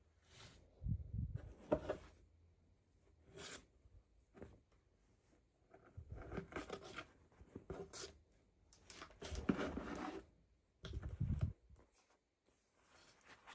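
Toy packaging being torn open and handled in irregular bursts of tearing and rustling, with light clicks between.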